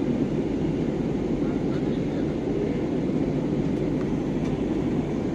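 Steady airliner cabin noise: the even rumble of jet engines and airflow heard from inside the passenger cabin in flight.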